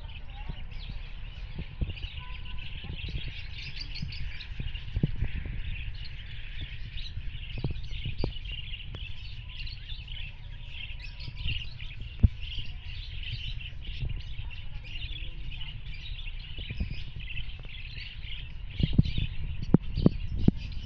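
Many small pet birds chirping and twittering continuously over a low steady rumble, with scattered sharp knocks, one loud one about halfway through and several close together near the end.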